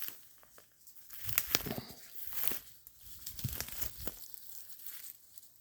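Irregular rustling and crackling of dry leaves, twigs and brush, with a few sharp snaps, as someone pushes on foot through dense undergrowth.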